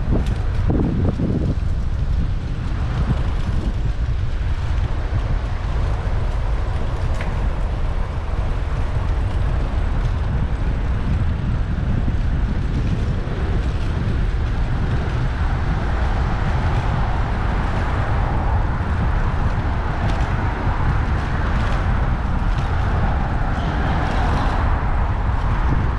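Wind buffeting the microphone of a bicycle-mounted action camera while riding, a steady low rumble, with road and traffic noise mixed in that grows louder in the second half.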